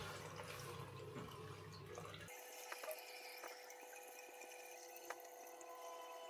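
Two cold basin taps running weakly, water trickling and dripping into the basin with a few sharp drips, as the cold water tank drains down and the flow dies off.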